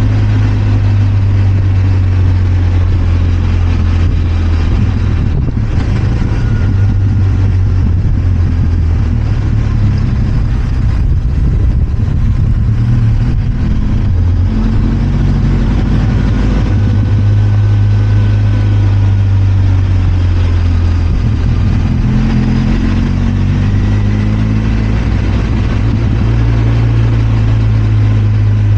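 Benelli TRK 502 X's parallel-twin engine running under way, holding a steady note at first. Its pitch wavers and shifts in the middle, then the revs pick up again later on.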